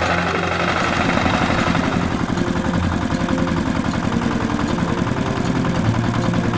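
Tractor engine running steadily, with a rapid, even firing rhythm.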